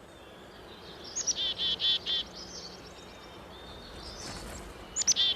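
Chickadee calling twice, about a second in and again near the end. Each phrase is a high opening note followed by four or five repeated lower notes, the chick-a-dee call.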